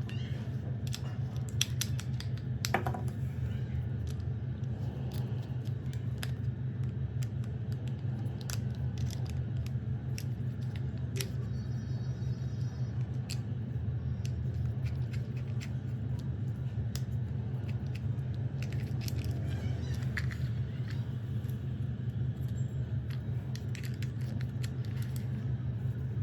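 Plastic toy parts clicking and snapping as a toy road roller is put together: many scattered sharp clicks over a steady low hum.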